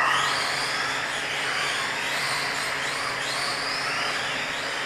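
Electric motors of RC Euro trucks racing, whining up and down in pitch several times as the trucks speed up and slow down, over a steady hiss.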